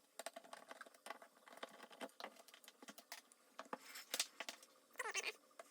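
Faint scattered clicks, taps and short scrapes of hands opening up an LED floodlight's housing.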